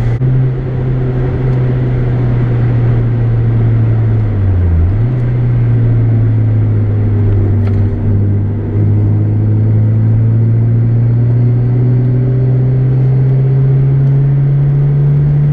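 Mazda MX-5's four-cylinder engine and loud exhaust running steadily under load. The pitch dips briefly about four and a half seconds in, then climbs slowly as the revs rise.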